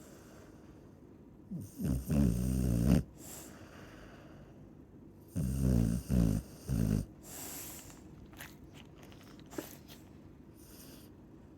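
Chow chow snoring: two loud snores about four seconds apart, the second broken into three short pulses.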